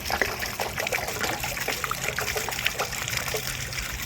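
Water splashing and trickling steadily as a motorcycle gas tank is rinsed out, with a low steady hum under it.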